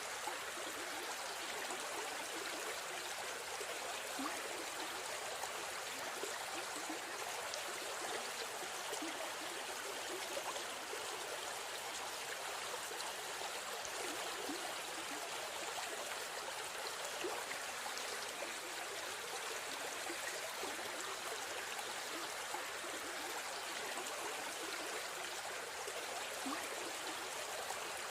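River stream flowing steadily, a continuous rush of water with small splashes and gurgles.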